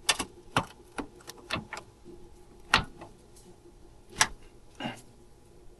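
Hand tools clinking and knocking against metal in irregular sharp strikes, a few louder than the rest, while working the power steering line fittings on a rack and pinion.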